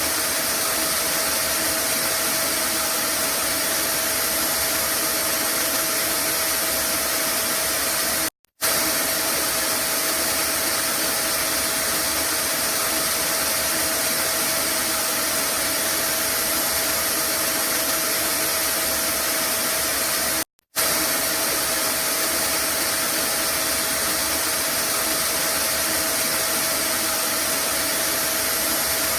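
Vacuum cleaner running steadily as white noise, a constant rushing hiss with a faint steady whine. It cuts out completely for a split second twice, about twelve seconds apart.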